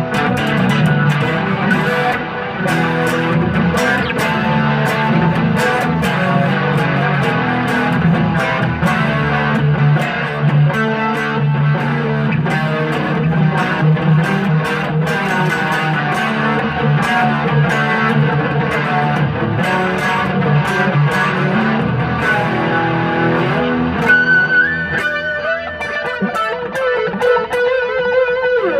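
Stratocaster electric guitar on its middle pickup, played through a clean amp setting with a little chorus: a continuous run of picked notes and chords. About three-quarters through it changes to higher, held and bent single notes.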